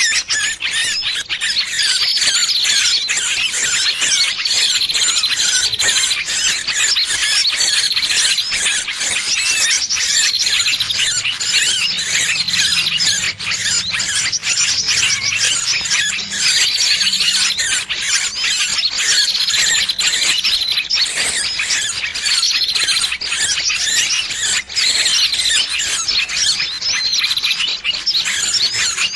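Bird-lure recording of small birds' distress squeals, the calls of a trapped, pinched bird used to draw other birds in. A dense, unbroken chatter of high-pitched squeaks, with a short falling note about every two seconds.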